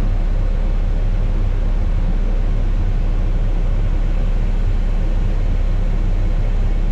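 Rented Cat excavator's diesel engine running steadily, heard from inside the cab as an even low rumble with a faint steady hum above it.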